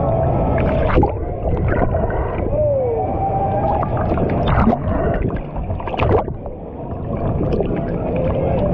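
Rushing, gurgling water of a wave-driven lazy-river rapid churning around a floating rider, with repeated sharp splashes.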